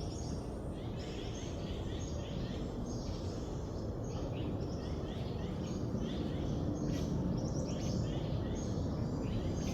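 Small birds chirping and twittering: many short, quick, falling notes overlapping in a steady chorus, over a constant low background hiss.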